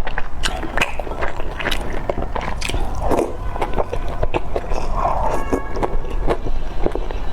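Close-up chewing of a soft steamed dumpling: quick, wet mouth clicks and smacks.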